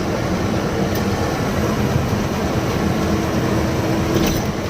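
Steady drone of a lorry's engine and road noise while it is being driven.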